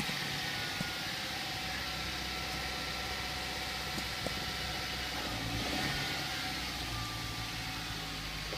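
A car engine running steadily, with a few faint clicks.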